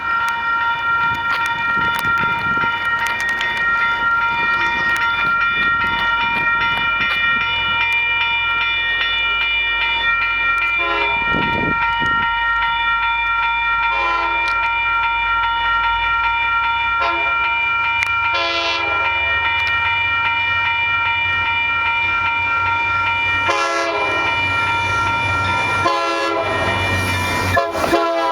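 Train horn blowing long, sustained blasts with a few short breaks as the train approaches and passes through a grade crossing. The steady low rumble of the train runs beneath the horn.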